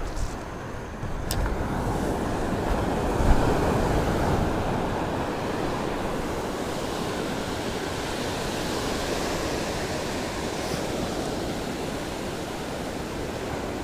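Surf washing onto the beach in a continuous rush that swells a few seconds in, with wind on the microphone. There is one light click about a second in.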